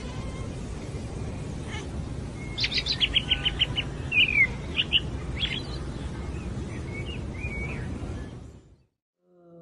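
Small birds chirping: a quick run of about eight high chirps about three seconds in, then a few single chirps and a falling note, over steady low outdoor background noise that cuts off shortly before the end.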